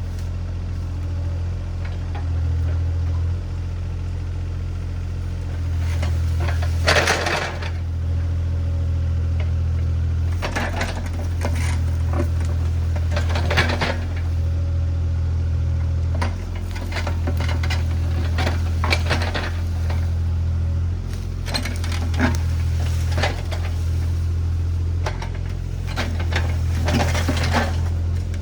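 Diesel engine of a piece of heavy equipment running steadily with a low drone, while clanks and crunches come every few seconds as the machine works. The loudest come about seven and fourteen seconds in.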